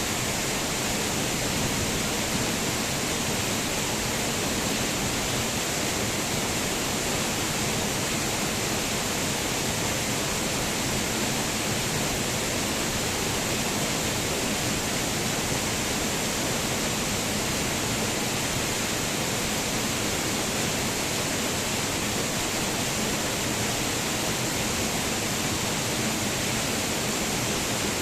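Waterfall: falling water rushing in a steady, even wash of noise that does not change.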